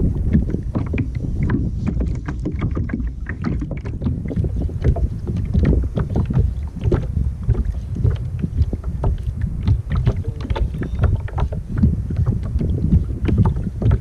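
Water splashing and lapping against a kayak hull, with many small sharp splashes and drips, over a low rumble of wind on the microphone.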